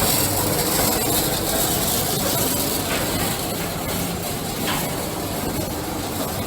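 Coffee filling and bag-packing machine running: a steady mechanical noise with two faint clicks partway through.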